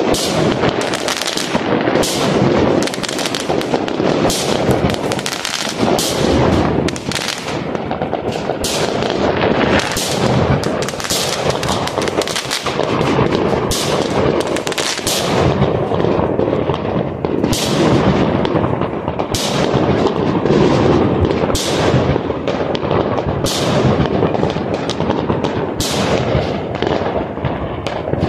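Many aerial fireworks going off at once: a continuous din of sharp bangs, about one a second or faster, over steady crackling and popping.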